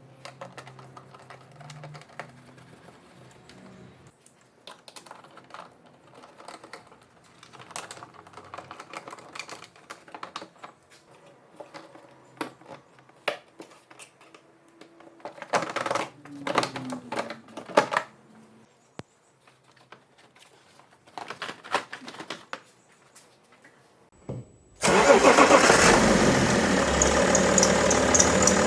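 Scattered clicks and knocks of tools and parts being handled in the engine bay, then about 25 seconds in the BMW M57 3.0-litre inline-six diesel cranks, starts suddenly and keeps running loudly at idle.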